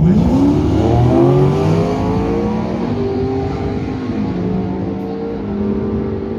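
A drag-racing car's engine launching and accelerating hard, its pitch climbing steeply, then dropping twice as it shifts up before holding steady. The sound slowly fades as the car pulls away down the strip.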